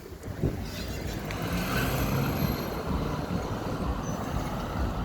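A motor vehicle's engine running close by: a steady low rumble that swells slightly after about a second.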